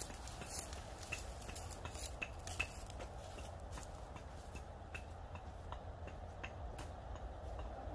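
Irregular light clicks and taps, more frequent in the first few seconds, over a steady low rumble.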